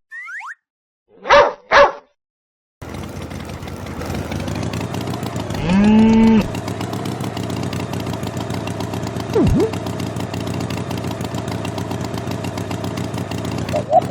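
Two short barks, then a steady engine-like running noise, with a brief rising call about six seconds in.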